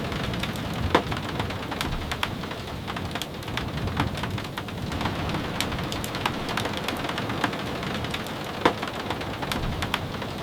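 Steady rain falling, with scattered sharp drip taps through it; two louder taps come about a second in and near the end.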